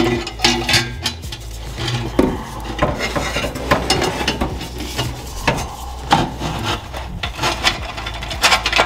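Metal exhaust pipe sections scraping and knocking as they are slid together and worked into place under the car, in irregular rubs and clunks.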